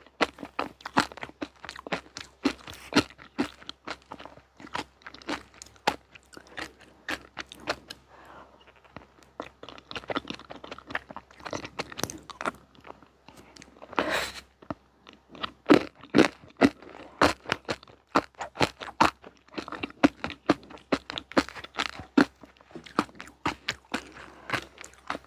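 Close-miked chewing of crunchy sweets: a steady run of crisp, irregular crunches, with one louder, longer crunch about fourteen seconds in.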